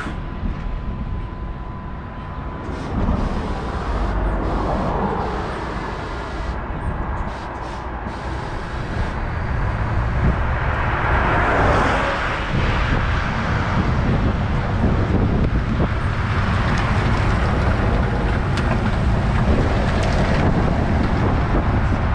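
Truck and trailer on the move: the engine runs under heavy road and wind noise, and the sound swells and eases a few times.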